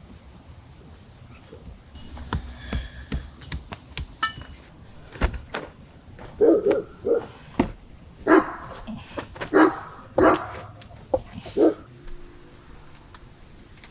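A dog barking about eight short barks in the second half, after a run of sharp knocks and clicks.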